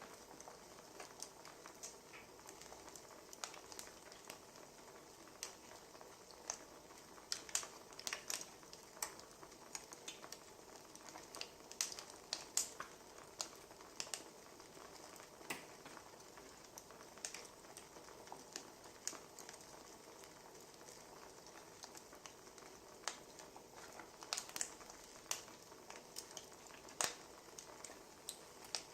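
Wood fire crackling: irregular snaps and pops, some in quick clusters, over a soft steady hiss.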